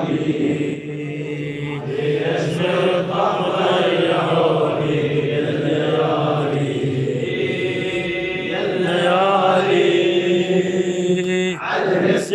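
Male voice chanting a slow, drawn-out melodic line of an Arabic religious elegy (a Shia poem for Sayyida Zaynab), with a steady low drone underneath.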